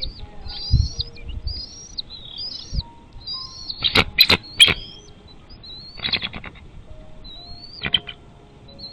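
Bald eagle calling at the nest: a run of thin, high sliding chirps, broken by louder clusters of sharp, rapid notes about four seconds in and again near six and eight seconds. A couple of low thuds come in the first few seconds.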